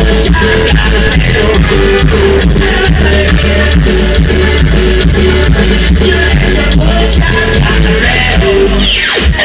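Loud music with heavy bass, a steady beat and singing, played through a DJ sound system; just before the end a falling sweep cuts across it as the bass briefly drops out.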